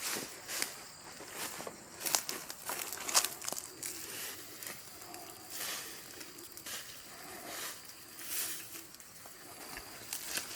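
Irregular crunching and rustling of dry leaves and spiky chestnut burrs being stepped on and handled while chestnuts are picked up, with crickets chirring steadily.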